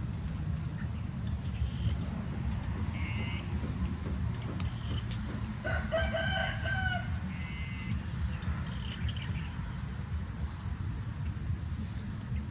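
A rooster crows once, about six seconds in, among short high chirps from other birds that come back every few seconds. Under them runs a steady high whine and a low rumble.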